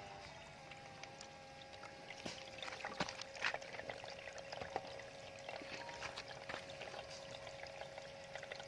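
Water trickling and splashing from a homemade bamboo water fountain, with small irregular drips and splashes over a faint steady tone.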